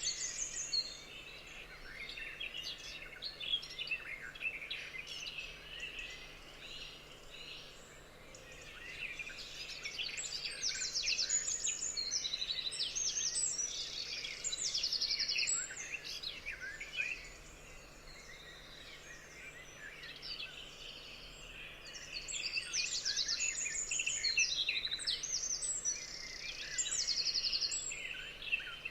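Several wild birds singing at once: overlapping chirps and fast, evenly pulsed trills, busiest in two stretches about ten seconds and twenty-two seconds in, thinner between.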